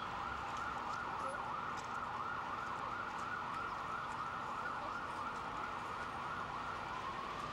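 Emergency vehicle siren on a fast yelp, sweeping up and down about three times a second, changing to a slower rising wail near the end.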